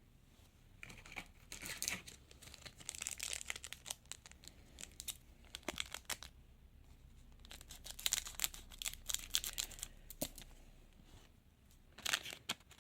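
Trading card pack wrapper being torn open and crinkled, in several irregular bursts of tearing and rustling.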